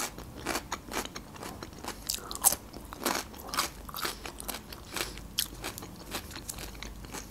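A mouthful of fresh cucumber being chewed, with irregular crunches and clicks.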